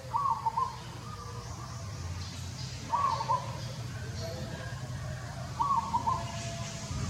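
A bird calling: the same short call of a few quick notes, given three times about every two and a half to three seconds, over a low steady hum.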